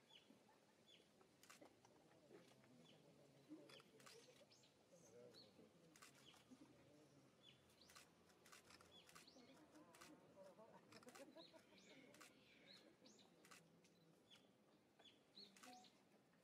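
Near silence: faint, scattered small-bird chirps and brief clicks over a low background murmur.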